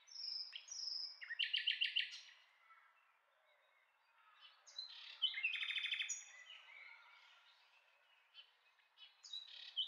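Songbirds chirping, with quick trilled phrases in groups and a pause of a couple of seconds mid-way.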